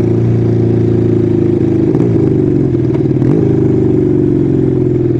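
Kawasaki 440 motorcycle's air-cooled parallel-twin engine running under way. Its engine note dips and picks up again twice, about two and three seconds in.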